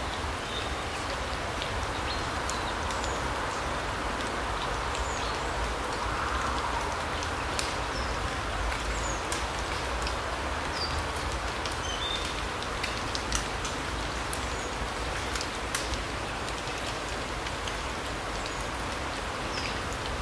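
Forest ambience: a steady rushing hiss with scattered light ticks and a few short, high bird chirps.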